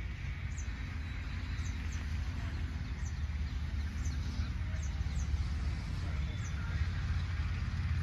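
Short high chirps from small birds, often in pairs, about once a second over a steady low rumble.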